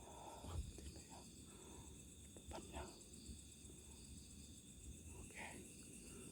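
Near silence: faint steady chirring of night insects such as crickets, with a few soft, brief rustles.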